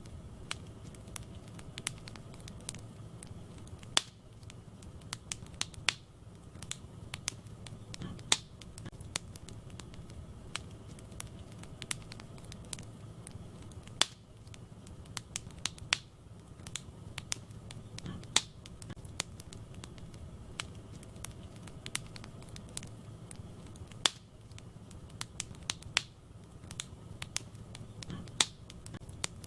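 Wood fire burning in a fireplace, crackling with irregular sharp pops, several louder than the rest, over a steady low rumble of the flames.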